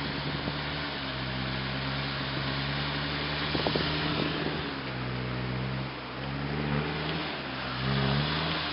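Off-road truck engine running steadily, then revving up and down a few times in the second half.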